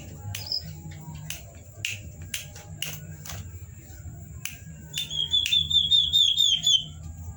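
Common iora (cipow) song: a rapid run of about ten short, repeated whistled notes starting about five seconds in, over scattered sharp clicks and a faint steady high tone.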